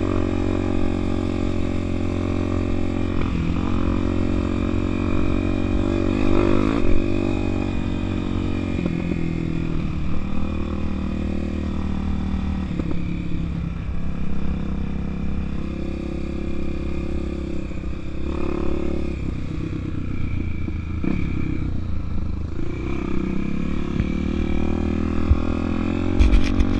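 Honda Tornado 250 trail bike's single-cylinder four-stroke engine running under way, its revs rising and falling repeatedly as the throttle is worked. There is a sharp knock near the end.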